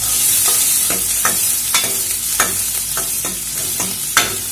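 Shallots, green chillies and garlic sizzling as they sauté in hot oil in a stainless steel kadai, stirred with a steel ladle that scrapes and clinks against the pan about every half second.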